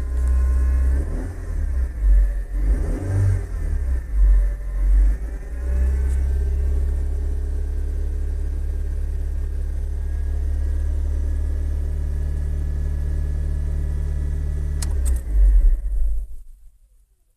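1995 Honda Civic engine revved up and down a few times, a whine in it rising and falling with engine speed, then held at a steady speed. A strange whining noise of unknown cause. Near the end come a few louder bumps, and then the sound cuts off.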